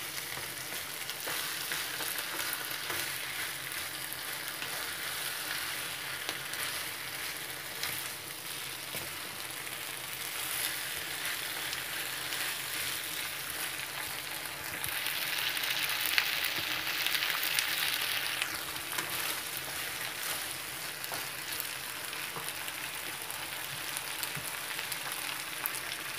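Chicken, bell peppers and baby corn sizzling in a non-stick frying pan, stirred with a wooden spatula that scrapes and knocks against the pan now and then. About two-thirds of the way through, the sizzle grows louder for a few seconds.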